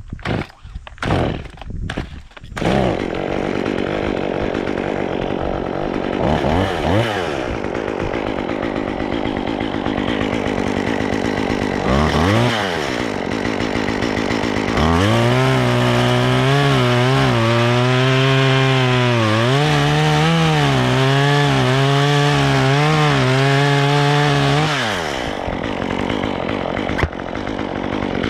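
A few sharp knocks, then a chainsaw running. It is blipped up twice, then held at full throttle for about ten seconds, its pitch dipping and wavering as it cuts through wood. It then drops back to idle.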